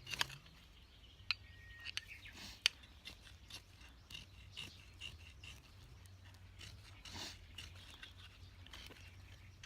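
Faint scattered clicks and short scrapes of a knife working at a fire lay, with small birds chirping behind.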